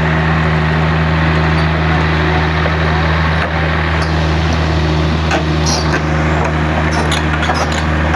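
Excavator's diesel engine running steadily at constant speed, a deep hum, with scattered clanks and knocks in the second half.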